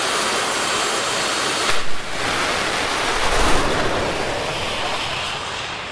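Jet-powered drag racer's turbine running as a loud, broad rushing roar, with a brief sharp burst about two seconds in; the roar swells again and then fades near the end.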